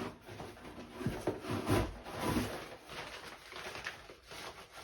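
Cardboard and plastic packaging rustling and knocking irregularly as parts are handled and lifted out of a box.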